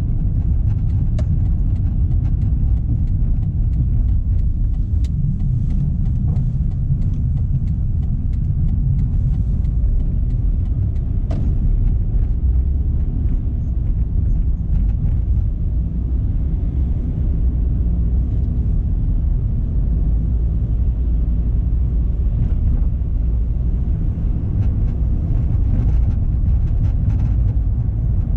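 Steady low rumble of a car driving, tyre and engine noise, with a few faint clicks.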